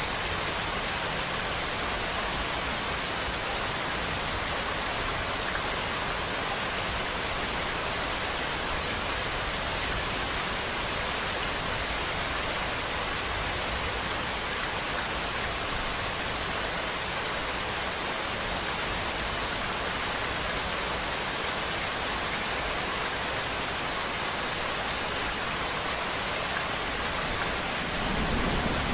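Steady, continuous rainfall pattering on surfaces, an even hiss at constant level. A low rumble swells in near the end.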